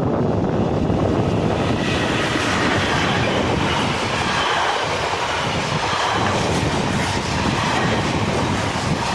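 A train rolling along the track, a steady loud rumble and rattle of wheels on rails, growing brighter and harsher about two seconds in.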